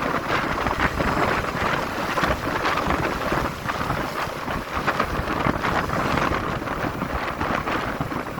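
Wind rushing over the microphone of a motorcycle under way, a steady noise that rises and falls in gusts, with the bike's road noise mixed in.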